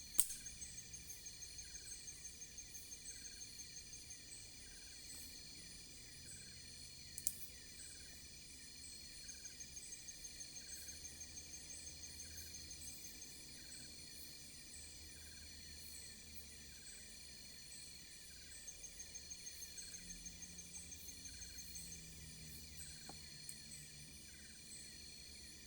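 Insects, crickets among them, calling at night: a steady high-pitched chorus with a pulsing trill of about four beats a second that comes and goes in bouts of a few seconds. Two sharp clicks cut through, one right at the start and one about seven seconds in.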